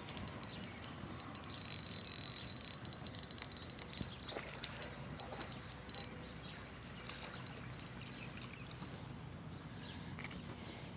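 Faint outdoor background with a rapid run of light ticks over the first three seconds and a few soft knocks around four and six seconds in.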